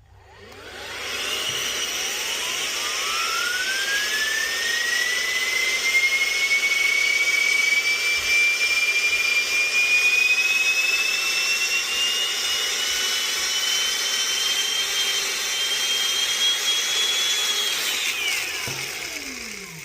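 3D-printed multi-disc Tesla turbine driven by an air duster on its first setting: a loud rush of air with a whine that spools up quickly over the first few seconds, then keeps creeping slowly higher. Near the end the air cuts off and the whine drops in pitch as the rotor spins down.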